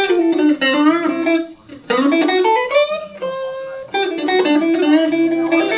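Electric guitar, a Van Zandt Telecaster through a Roland JC-120 amp, playing a blues lead fill of single notes with string bends and held notes.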